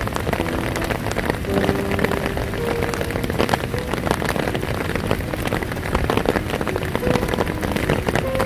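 Heavy rain falling steadily, with many individual drops striking close by. Brief steady mid-pitched tones come and go faintly behind it.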